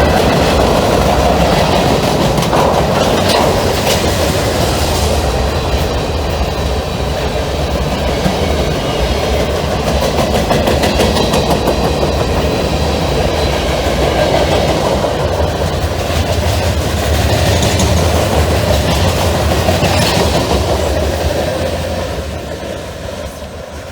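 A freight train's cars rolling past at speed, wheels clacking over the rail joints. The sound starts to fade near the end as the train moves away.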